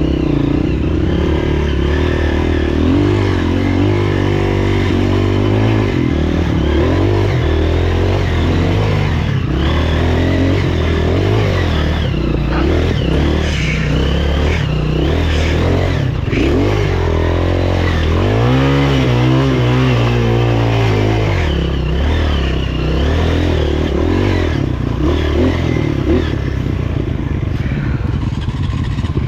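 The air-cooled single-cylinder four-stroke engine of a freshly overhauled Honda CRF230F is running hard under load. The revs rise and fall again and again, with clear climbs a few seconds in and again about two-thirds of the way through.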